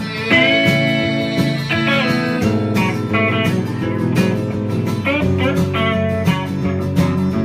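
Live acoustic guitar music: an instrumental break of picked and strummed guitar in a country/bluegrass ballad.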